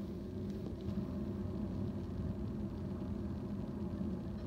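A train rolling past: a steady low rumble of wheels on rails that holds even throughout.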